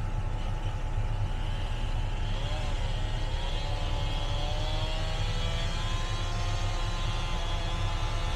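Excavator's diesel engine running steadily at an even level.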